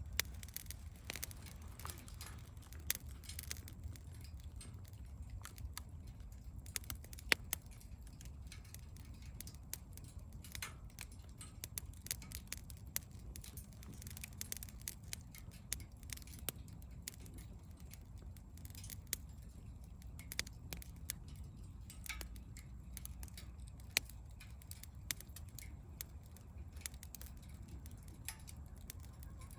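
Campfire crackling: irregular sharp pops and snaps, some louder than others, over a low rumble.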